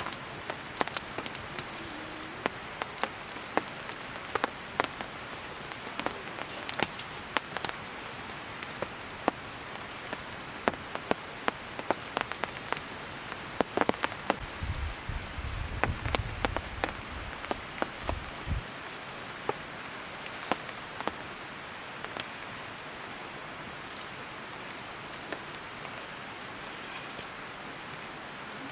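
Wood campfire crackling and popping: irregular sharp snaps, a few a second, over a steady hiss. A low rumble comes in for a few seconds around the middle.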